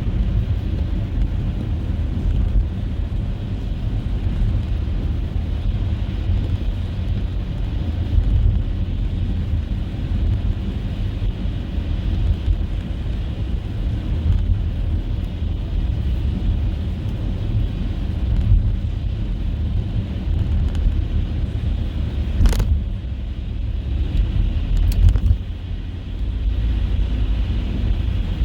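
A car driving on a snowy parkway: a steady low road and engine rumble with tyre hiss. One sharp click comes about 22 seconds in, and two lighter clicks a couple of seconds later.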